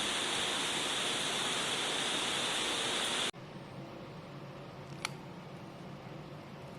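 Heavy rain falling, a steady hiss that cuts off suddenly about three seconds in, leaving a much quieter background with a single sharp click near five seconds.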